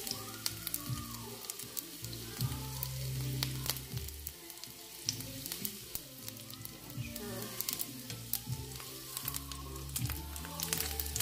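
Onion rounds sizzling and crackling in hot olive oil in a frying pan on low heat, with many small pops. Near the end a spatula is pushed into the pan and shifts them.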